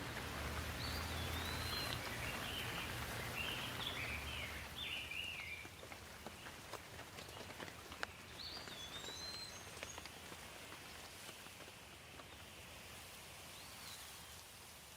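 Steady rain falling, with scattered drops ticking on surfaces. Birds chirp over it, in a burst during the first few seconds and briefly twice later, and the rain gets softer about five seconds in.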